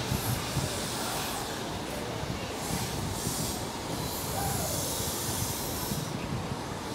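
Intercity passenger train running on the station lines: a steady rail noise with a high hiss that swells and fades several times.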